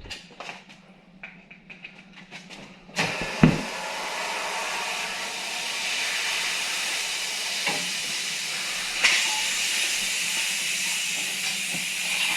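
A few light clicks and knocks, then about three seconds in a steady hiss of compressed air starts suddenly and runs on, with a sharp knock just after it begins.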